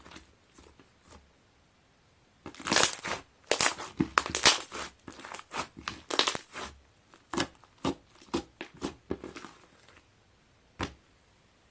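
Aloe slime squeezed and pressed by hand, crackling and popping. The sounds begin a couple of seconds in as a dense cluster, thin out to separate pops, and one last pop comes near the end.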